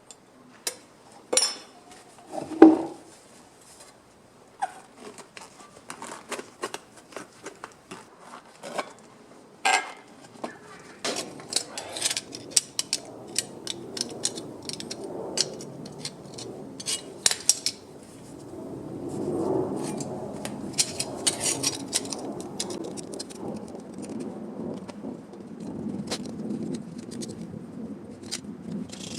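Sheet-metal hand work: scattered sharp clicks and metallic clinks of tools and steel pieces, becoming denser with a low scraping and rubbing noise from about ten seconds in.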